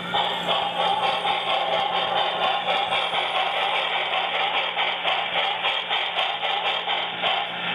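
Onboard sound system of a Broadway Limited On30 2-8-0 model steam locomotive playing steady, rapid steam chuffing and running sounds through its small speaker as the model runs on the track.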